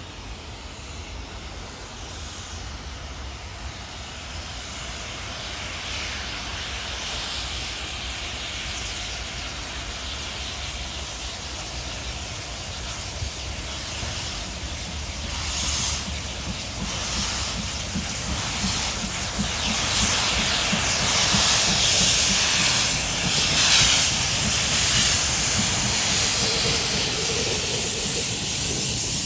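Steam locomotive approaching on a train, its noise rising steadily in loudness and loudest near the end, with a strong hiss.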